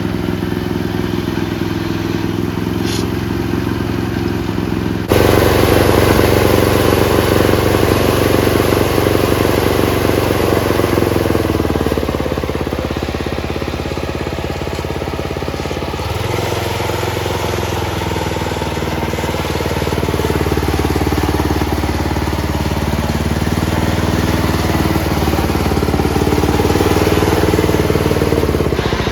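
Small engine rigged into a 1959–64 Penncraft lawn tractor running steadily. About five seconds in it suddenly gets louder and shifts in pitch, and it shifts again around sixteen seconds in.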